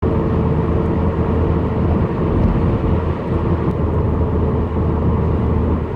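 Steady road noise inside a moving car's cabin: an even low rumble of tyres and engine with a constant low hum.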